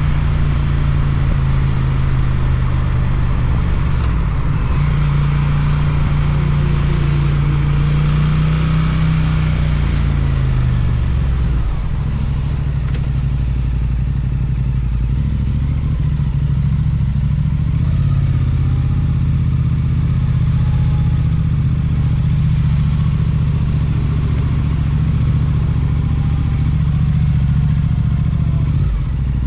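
Suzuki GSX-8TT motorcycle's twin-cylinder engine running through an Akrapovic exhaust while riding, with a steady note that falls in pitch about ten seconds in and then holds steady again.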